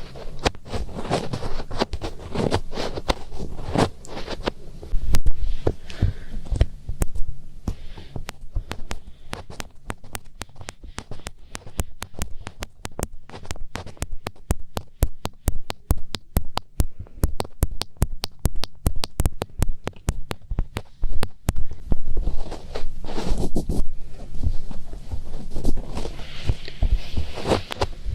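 Fingertips rubbing, scratching and pressing inside the ears of a binaural ASMR microphone, heard as close, crackling scrapes and muffled rumbles. Through the middle the rubbing gives way to a long run of quick, light, evenly spaced taps.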